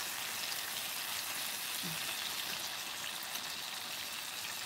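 Chicken and spinach frying in a reducing soy sauce mixture in a frying pan, a steady sizzle.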